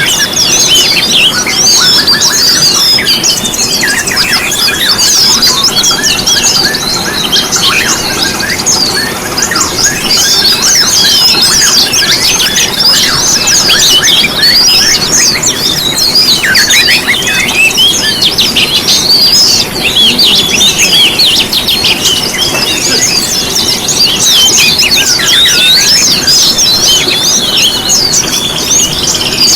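Dense chorus of many small songbirds chirping and trilling at once, with rapid high-pitched twitters overlapping without pause. It is a mixed-birdsong lure recording, played to provoke caged songbirds into singing.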